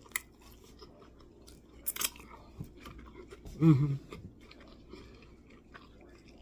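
A person chewing sauced chicken wings close to the microphone, with wet mouth clicks and a crunch about two seconds in. A short hum comes about halfway through.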